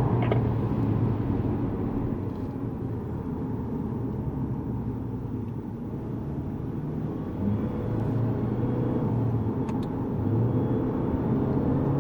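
Lexus GS200t's 2.0-litre turbocharged four-cylinder engine and tyre noise heard inside the cabin during a track lap, easing off through the middle, then louder from about halfway through as the engine note rises under acceleration.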